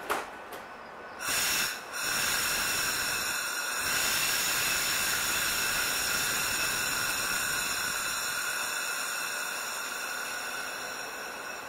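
A train making a steady, loud hiss with several high, steady whistling tones in it. It starts suddenly about a second in, after a short burst, and grows a little louder about four seconds in.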